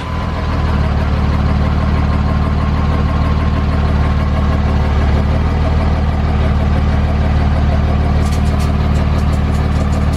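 Cummins straight-six turbo-diesel idling steadily just after a cold start, with a thin steady whine over the engine note. Near the end comes a brief run of sharp ticks, which the owner takes for a piece of metal passing through, sounding "like in a shop vac".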